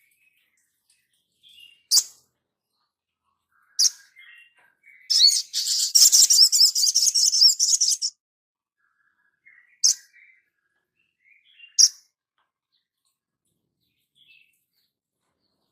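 Small songbird calling: single sharp, high chips a few seconds apart, and a fast, high trilling song lasting about three seconds near the middle.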